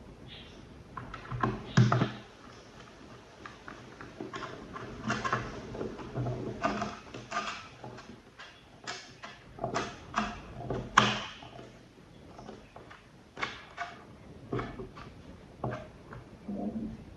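Irregular clicks, taps and knocks of small hard parts being handled and set down, with two louder knocks about two seconds in and near the middle.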